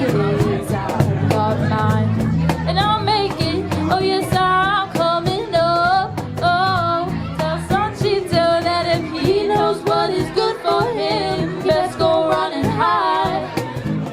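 Live rock band playing a song: a lead singer over bass and a steady beat of drum hits.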